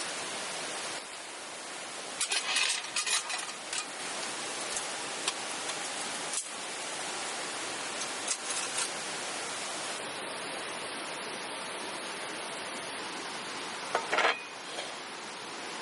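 Light clinks and rattles of small hard objects being handled, in a cluster about two seconds in and again near the end, over a steady rushing hiss.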